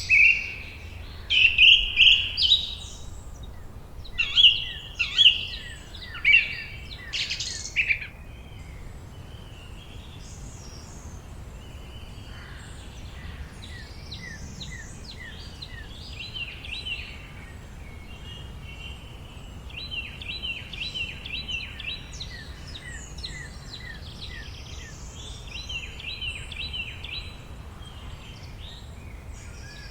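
Several songbirds singing and chirping. Loud phrases come in the first eight seconds or so, then softer chirps and quick repeated-note trills, over a steady low background noise.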